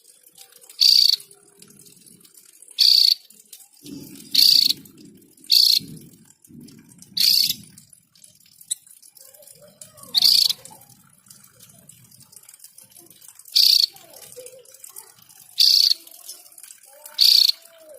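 Javan grey-throated white-eye (opior jawa) calling: short, loud, high calls, each about a third of a second, repeated every one and a half to three seconds, some nine in all. Faint low rustling sits beneath a few of them.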